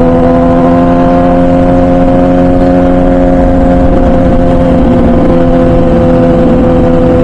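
MV Agusta Brutale 1000RR's 998cc inline-four running at a steady cruise through its full titanium Arrow exhaust. The engine note sags slightly about halfway through, then picks back up, with wind noise underneath.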